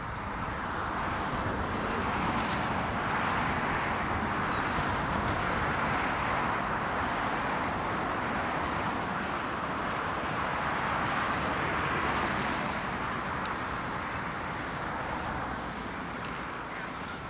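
Rushing noise of passing vehicle traffic, swelling over the first couple of seconds, holding, then fading after about thirteen seconds.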